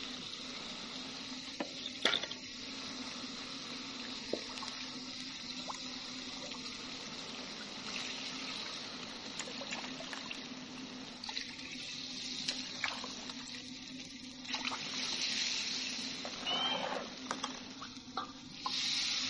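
Chicken frying in a steel wok as water is poured in from a small container, the sizzle turning to splashing and bubbling, with a few clinks of the ladle against the wok.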